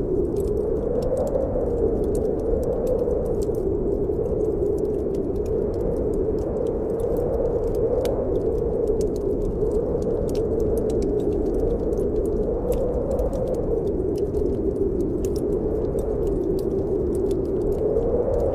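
Snowstorm wind blowing with a steady howl that slowly wavers up and down in pitch, over the light crackling of a wood fire in a fireplace.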